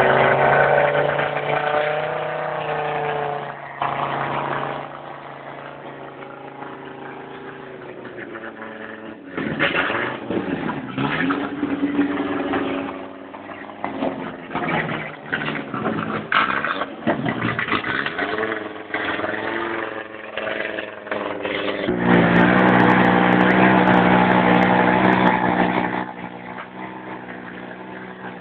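Audi quattro Group B rally car's turbocharged five-cylinder engine running at idle. Its driver gives it a string of quick throttle blips, the pitch rising and falling. About twenty-two seconds in it is held at high revs for around four seconds before dropping back.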